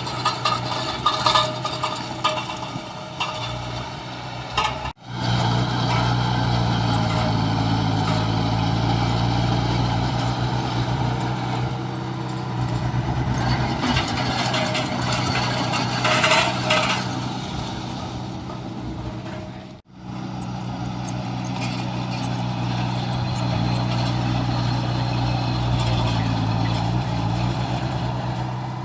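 Heavy diesel construction-machine engines running steadily under load, with metallic clanks and rattles in the first few seconds and again about two-thirds of the way in. The sound drops out abruptly for an instant twice.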